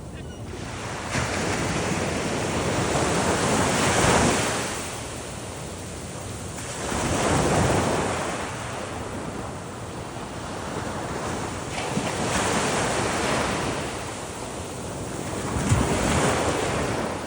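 Ocean surf: waves breaking and washing up the beach in slow swells, one about every four seconds, with wind buffeting the microphone.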